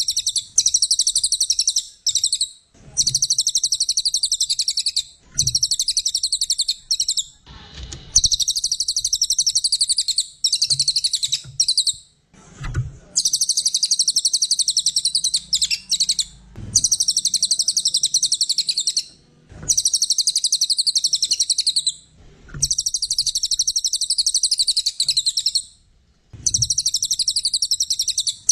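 A cililin songbird singing vigorously: dense, high-pitched, rapid trilling phrases of about two to three seconds each, repeated with short pauses between them.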